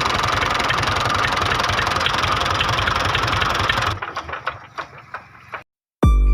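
Small engine running steadily with fast, even firing pulses, cutting off about four seconds in and leaving a few light clicks. Music starts right at the end.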